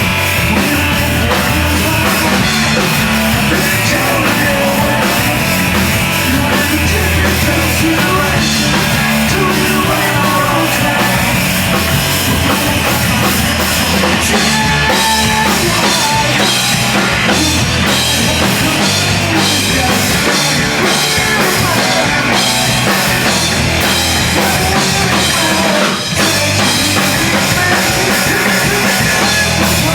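A live post-hardcore/screamo band playing loud, with distorted guitars and pounding drums. There is a brief break about 26 seconds in before it comes back in.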